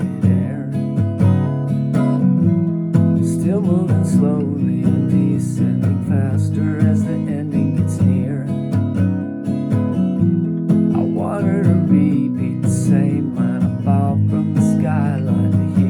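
Acoustic guitar strumming in a song's instrumental stretch, with a wavering melody line above the chords.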